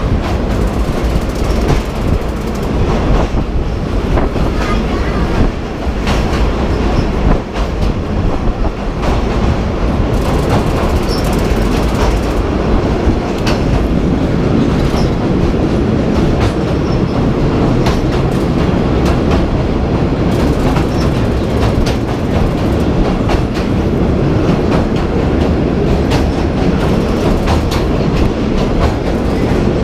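Passenger train running along the track: a steady rumble with the clickety-clack of the wheels over rail joints.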